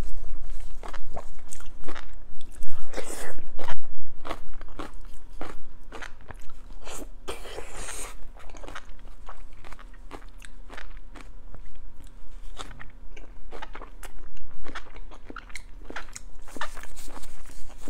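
Close-miked chewing and biting of braised pork belly: a quick run of short smacking clicks from the mouth, thickest in the first few seconds and again near the end, sparser in between.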